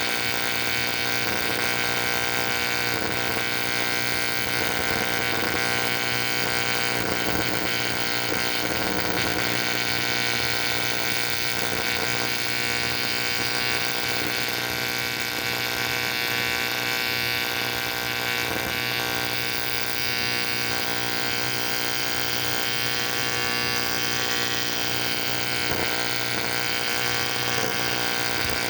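Electric welding arc buzzing steadily as a cast aluminium cylinder head is welded, running without a break.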